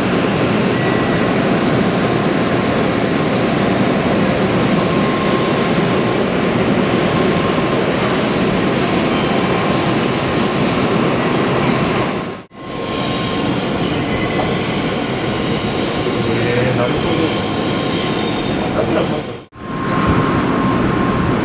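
Shinkansen train running on the station track: a loud, steady rush of wheel and running noise, with thin high-pitched wheel squeal in the middle part. The sound cuts out abruptly twice, about 12 and 19 seconds in.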